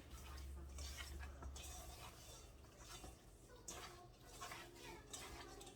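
Faint, wet handling sounds of raw chicken wings being mixed with seasoning sauce, with scattered soft rustles and ticks.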